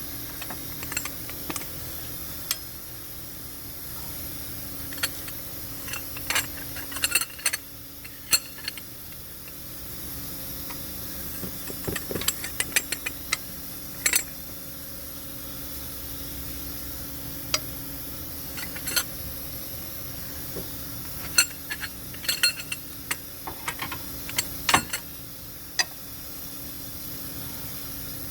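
Metal hand tools clicking and clinking in irregular bursts, some in quick runs of clicks, while work goes on at an engine's cylinder head. A steady hum runs underneath.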